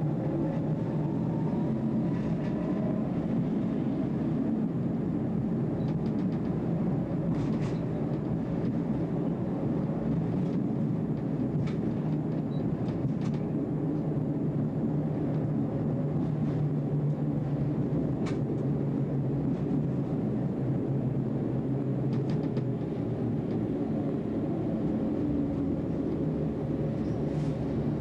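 Electric tram running along the track, heard from the driver's cab: a steady rumble with a faint rising whine in the first few seconds and scattered sharp clicks and knocks from the wheels and rails.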